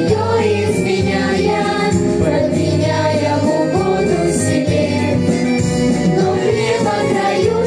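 A song: a vocal group singing over an instrumental backing track.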